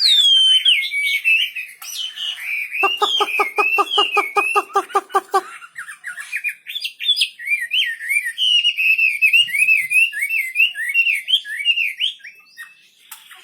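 Chinese hwamei singing continuously: a loud, varied run of warbled, gliding whistled phrases. From about three to five and a half seconds in, the song includes a quick run of lower, evenly pulsed notes, about nine a second.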